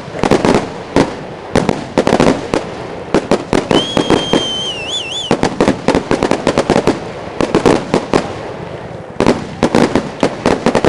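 Aerial fireworks going off in quick succession, a dense run of bangs and crackles with a short lull near the end. A high whistle sounds about four seconds in, held for around a second and a half before it wavers.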